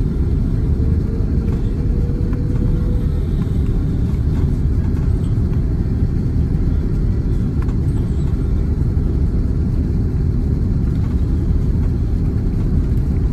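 Steady loud rumble inside the cabin of an Airbus A330-300 airliner around landing: engine and airflow noise heard from a passenger seat. A faint tone rises slightly above it in the first few seconds.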